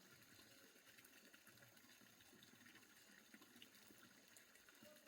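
Near silence: a faint, even background hiss with a few tiny ticks.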